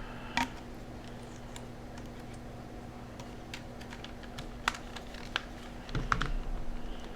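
A few scattered light clicks and taps of small plastic parts of a handheld computer being handled and pressed into place, several close together about six seconds in, over a steady low hum.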